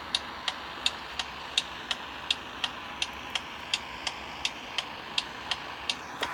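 Ford F-150 turn-signal flasher ticking steadily, about three ticks a second, over a faint steady hiss.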